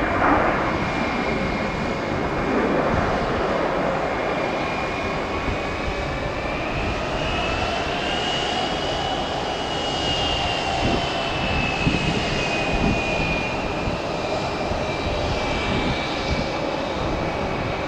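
Airbus A320-200 jet engines at takeoff power as the airliner departs, a steady rumble with an engine whine that rises in pitch toward the middle and then falls away as it passes.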